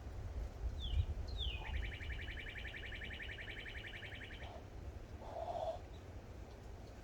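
A high bird trill: two quick falling notes, then a fast, even trill lasting about three seconds. About a second later comes a single short, low coo.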